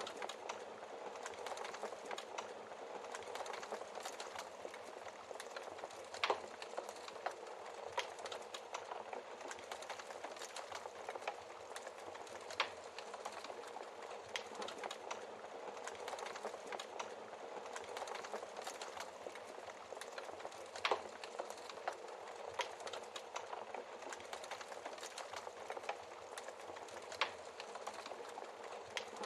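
Wood fire crackling steadily, with a handful of louder log pops spread through it.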